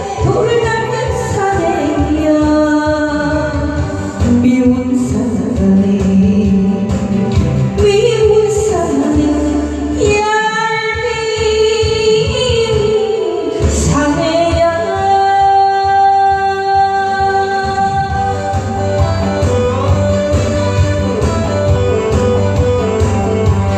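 A woman singing a Korean song over instrumental backing music.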